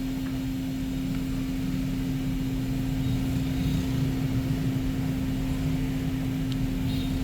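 Steady machine hum: one constant low tone over a low rumble, with a few faint small ticks.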